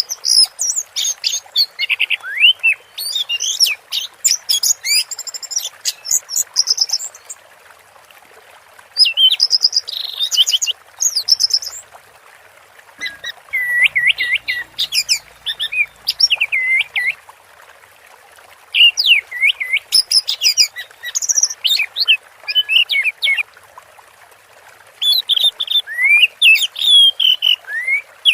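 Orange-headed thrush singing in full song: about six phrases of varied whistles and quick twittering notes, each a few seconds long, separated by short pauses.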